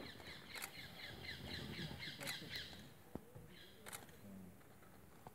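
Birds calling in a run of short, rapid, high notes that fade out about three seconds in, with a few faint sharp clicks.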